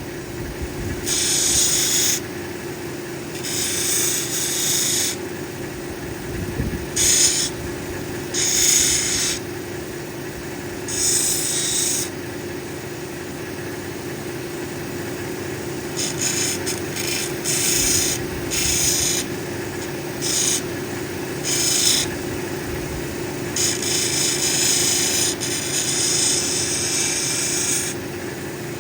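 Cabbing machine's motor running with a steady hum while a black opal is pressed again and again against the 600-grit wheel to smooth a bevel on its edge, giving bursts of gritty grinding hiss a second or two long with short pauses between.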